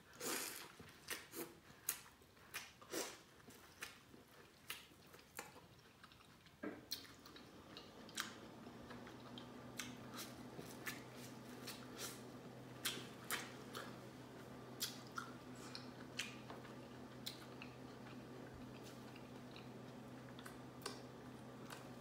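A person chewing and biting into corn on the cob from a seafood boil: many short clicks and mouth smacks. About seven seconds in, a low steady hum starts in the background and continues.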